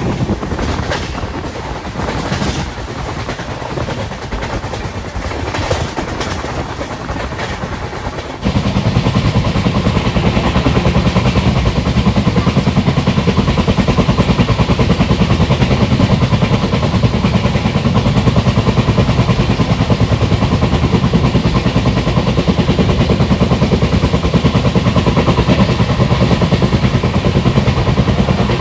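Indian Railways passenger train running, hauled by twin EMD diesel locomotives: at first wheels clicking over the rails with rushing noise, then about a third of the way in an abrupt cut to a louder, steady, fast low throb of the moving train.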